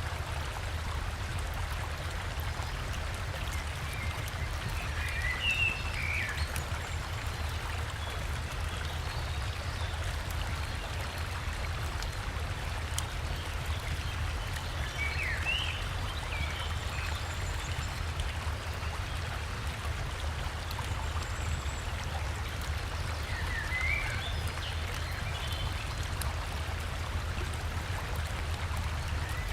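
River water flowing steadily with a continuous rush, with a bird giving short chirps three times, about ten seconds apart.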